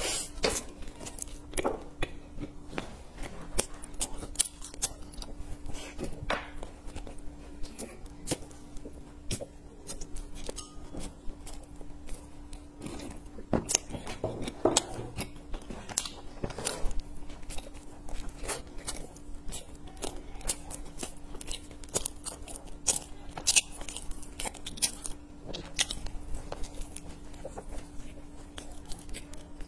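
Close-up eating of a soft sesame bun stuffed with beans: bites, wet chewing and irregular mouth clicks and smacks, over a steady hum.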